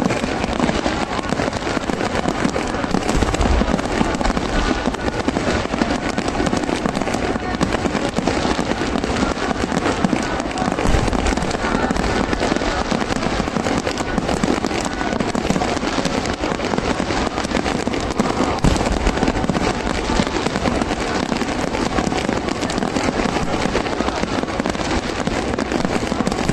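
Fireworks display: a dense, continuous barrage of bursts and crackling, with heavier low booms about 3, 11 and 18 seconds in.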